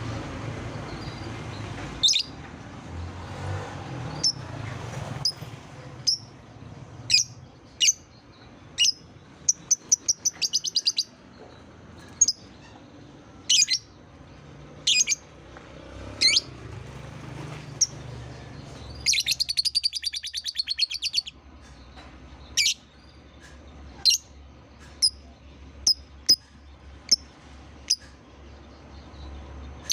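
Lovebird calling: a string of sharp, high chirps every second or so, with a quick trill about ten seconds in and a rapid chatter lasting about two seconds around two-thirds of the way through. A low hum sits under the calls for the first two-thirds.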